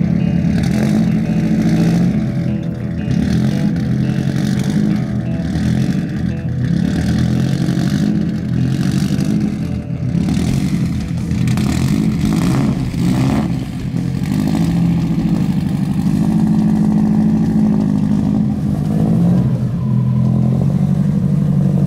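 Subaru Impreza WRX STI's turbocharged flat-four engine running loud through a muffler-delete 5-inch straight-pipe exhaust, with some revving.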